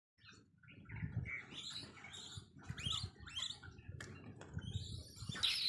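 Birds chirping in short, high calls, several a second, getting busier after about a second, with a low rumble underneath.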